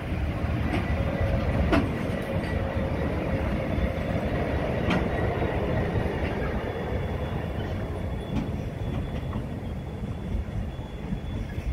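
Freight train of hopper wagons rolling past close by, a steady heavy rumble with a few sharp wheel clicks over the rail joints. A diesel locomotive at the rear passes about halfway through.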